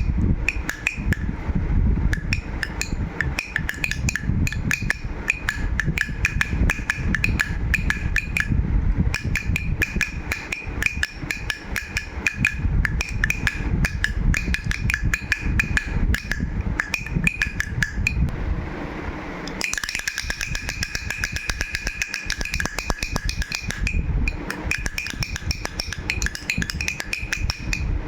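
A toy baby rattle shaken continuously, its beads making dense, rapid clicking, with a steady high ringing tone alongside. The shaking changes briefly about two-thirds of the way through, then carries on.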